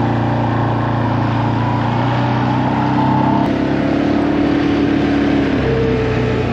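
Vehicle engine running steadily while riding along, its pitch holding nearly level with a slight shift a little before the end.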